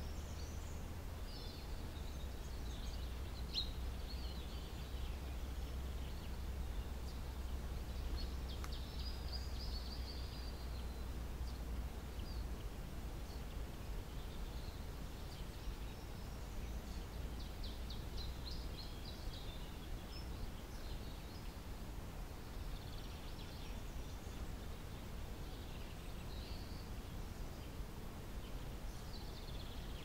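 Natural ambience: small birds chirping and trilling in short bursts every few seconds, over a low steady rumble that drops away about two-thirds of the way through.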